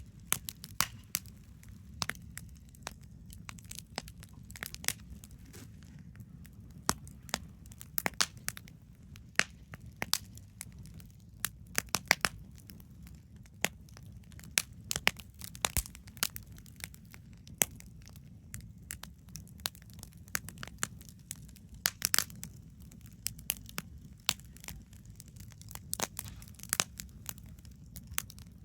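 Wood fire crackling, with irregular sharp pops and snaps, the loudest about twelve and twenty-two seconds in, over a steady low rumble.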